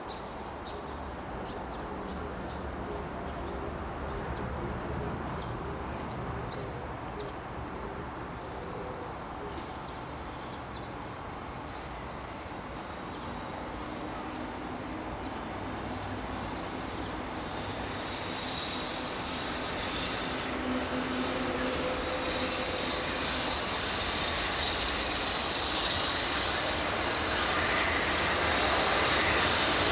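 An EF66 electric locomotive hauling a container freight train approaching from afar, its running rumble building steadily louder, with a high wheel squeal coming in over the last ten seconds.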